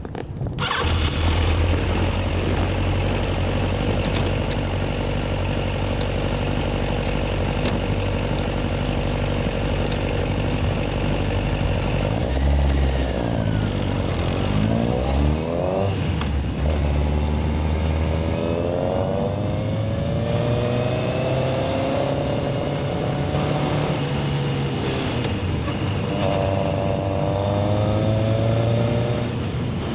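Yamaha XJR1300's inline-four engine running at a steady pitch, then pulling up through the revs in several rising runs from about halfway through as the motorcycle accelerates.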